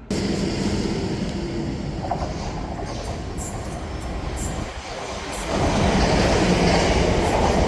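South Western Railway passenger train running through the station, with steady wheel-on-rail noise and a few sharp clicks of the wheels over the track, growing louder about five and a half seconds in.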